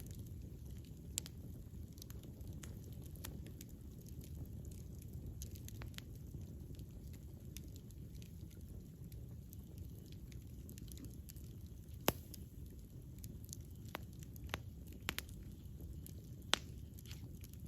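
Wood fire burning: a steady low rumble with scattered sharp crackles and pops of burning wood, the loudest about twelve seconds in.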